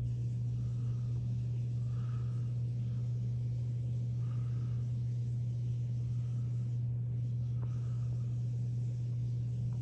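Steady low mechanical hum, with a faint higher tone pulsing about once a second.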